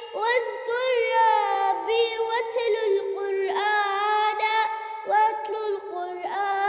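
A child singing an Arabic children's song in melodic phrases, over a steady held backing note.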